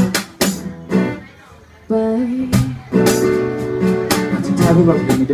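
Acoustic guitar strummed in a song accompaniment, with a short break a little over a second in before the chords resume and ring on.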